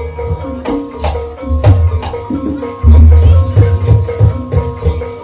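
Banyumasan gamelan music accompanying an ebeg trance dance: sharp drum strokes in a steady rhythm over held metallophone tones, with deep bass notes sounding about a second at a time.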